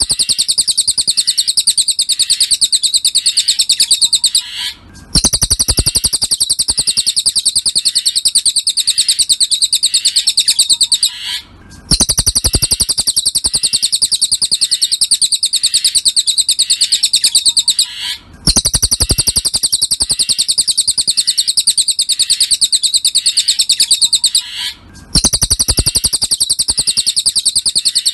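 Cililin bird song used as a masteran (tutor recording for songbirds): a fast, continuous trill of high notes in phrases about six seconds long, each followed by a short break. The same phrase repeats four times, as a looped recording.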